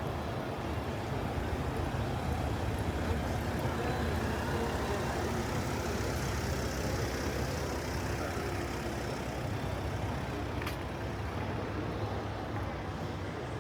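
City street traffic with the low rumble of a heavy vehicle's engine, swelling a little in the middle and easing off. There is one brief click near the end.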